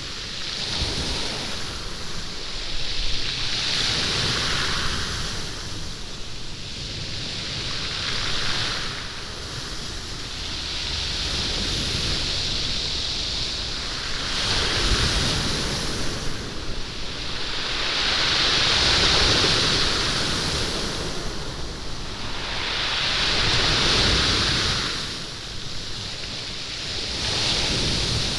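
Waves washing up a stony beach, rolling the stones so they rattle against one another, in swelling surges every few seconds.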